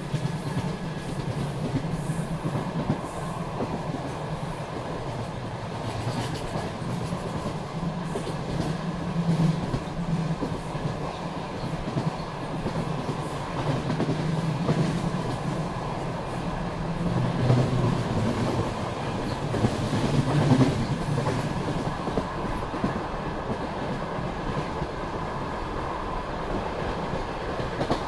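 Passenger train running along the line, its wheels clattering over the rail joints as heard from aboard a coach, with a steady low rumble that grows louder for a few seconds past the middle.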